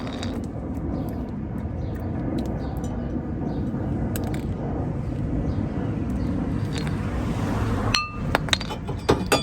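Metal-on-metal work on a car's brake rotor as it is knocked loose: steady low background noise, then about eight seconds in a sharp metal strike that rings, followed by a few lighter clinks.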